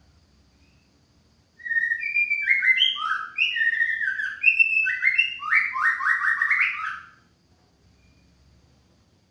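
White-rumped shama singing one phrase of about five seconds: a string of clear, downward-sliding whistled notes, ending in a quick run of repeated notes.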